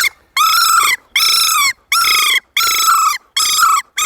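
Dan Thompson BD1 handheld predator call blown in bird-distress mode: a run of about six high, quavering squeals, each about half a second long, with short gaps between them. The flutter in each squeal comes from rolling the tongue while blowing. The call imitates a bird in distress to draw in foxes.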